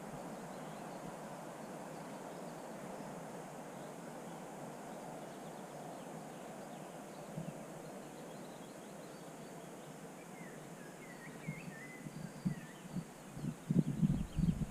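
Steady outdoor background hiss with a few faint, short bird chirps about two-thirds of the way through. Near the end comes a cluster of low knocks and bumps on the bird table.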